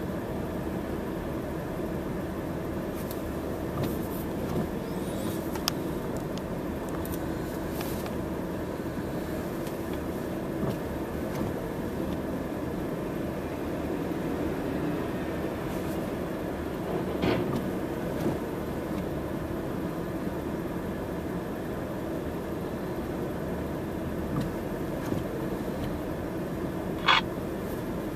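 A vehicle engine running steadily, with a few small knocks and a sharp click near the end.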